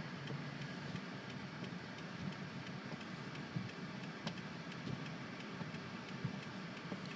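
Steady car-cabin noise from the car's engine and tyres at low speed, with a few faint, irregular ticks.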